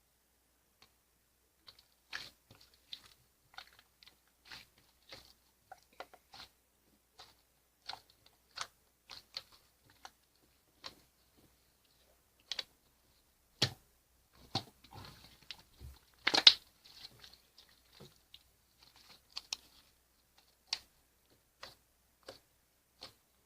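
Slime being squished and pressed by hand, making irregular wet clicks and small pops, about one or two a second, with a busier, louder stretch about two-thirds of the way in.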